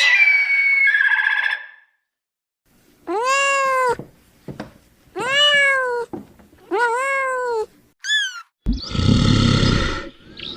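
A domestic cat meowing three times, each meow about a second long and rising then falling in pitch. A different high call comes before the meows, and a short falling squeak and a loud rough, noisy sound come after them.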